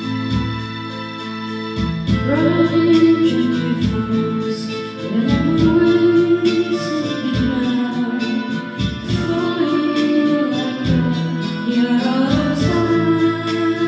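Karaoke backing track with sustained keyboard chords, and a woman singing the melody over it from about two seconds in.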